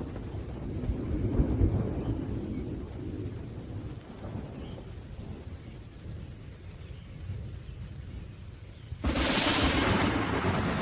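Thunderstorm with rain: a low rolling thunder rumble fades away over several seconds, then a sudden sharp thunderclap breaks about nine seconds in.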